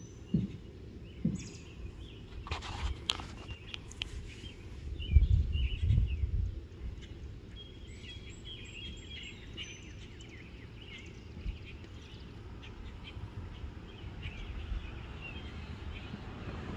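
Birds chirping and singing, with a few knocks and a low rumble on the microphone about five to six and a half seconds in.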